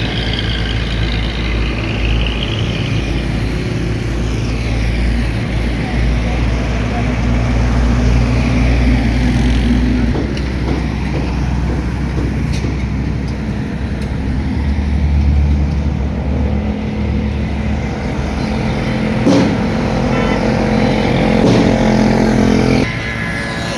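Busy road traffic: trucks, buses, cars and motorcycles driving past, their engines rising and falling as each vehicle passes. The sound drops off suddenly near the end.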